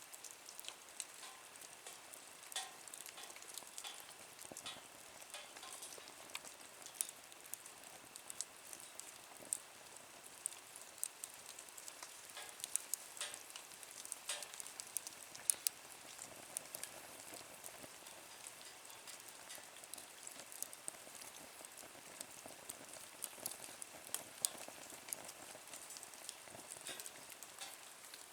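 Wood fire burning in a small nature stove, crackling with irregular sharp pops over a soft steady hiss.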